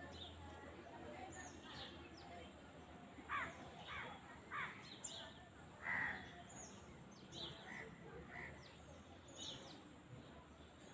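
Several birds calling outdoors: quick high chirps that sweep downward, with a run of louder calls in the middle, over a faint steady background hum.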